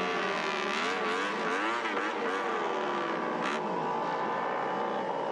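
Several superbike racing motorcycle engines revving, their pitch swooping up and down over one another, with a single sharp crack about three and a half seconds in.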